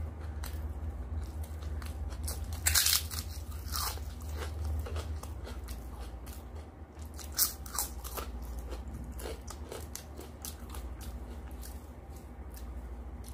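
Close-up bites and chewing of crisp fried papad (poppadom): loud crunches about three seconds in, again about a second later and once more about seven seconds in, among many small crackling chews.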